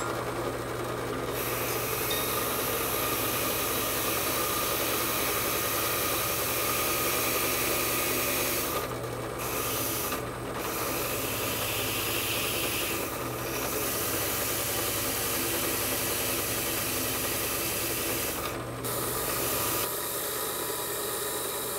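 Abrasive tool scraping carbon off an engine exhaust valve, a continuous rasping over a steady motor hum. The scraping breaks off briefly twice near the middle and once more near the end.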